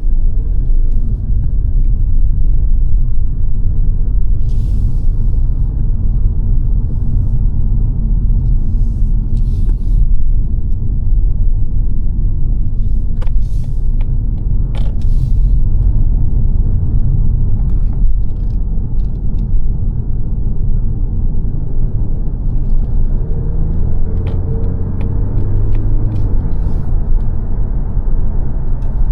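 Low, steady road and engine rumble heard inside the cabin of a 2022 Mazda 3 saloon on the move, with a few faint clicks in the middle and near the end.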